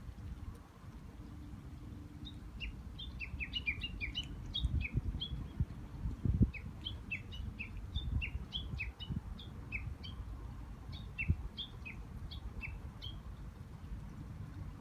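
Small birds chirping in many short, quick falling notes, starting about two seconds in and stopping shortly before the end, over a low rumble with a few dull thumps.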